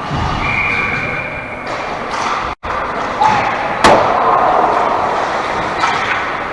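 A sharp knock about four seconds in, with a smaller one just before it, over a steady din. A high tone is held for about a second near the start.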